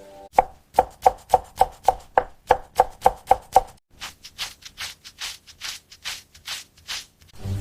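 Knife chopping on a cutting board in quick, even strokes, about four a second, each with a short ringing knock. About three and a half seconds in, the knocks give way to softer scraping strokes at a similar pace.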